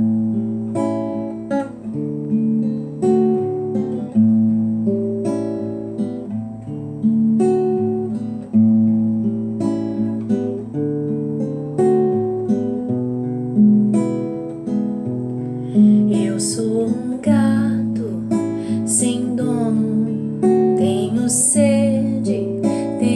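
Acoustic guitar playing the song's instrumental intro, picking notes and chords in an even pulse of about one stroke a second. A wavering higher melodic line joins about two-thirds of the way through.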